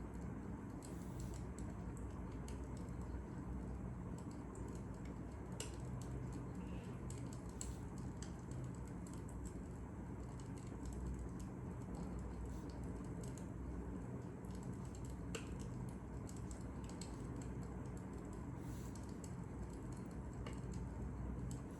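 Fire crackling: scattered, irregular sharp pops and ticks over a steady low rumble.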